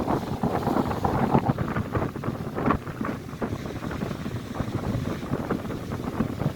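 Strong, gusty wind buffeting the microphone in irregular blasts, over the rush of lake waves breaking on the shore.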